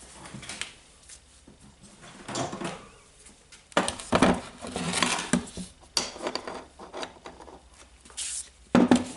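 Metal tools and small parts clinking and knocking on a workbench while a ball bearing is being fitted into an angle grinder, in a scatter of short, irregular clinks.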